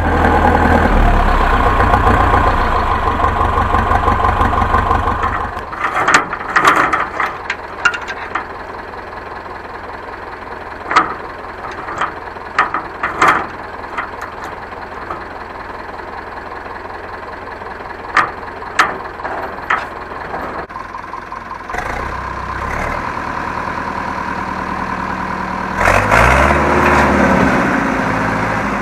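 Zetor 7745 tractor's diesel engine just after starting, running fast for about five seconds and then dropping to a steady idle. Scattered sharp knocks sound over the idle, and near the end the engine revs up briefly with a rising pitch.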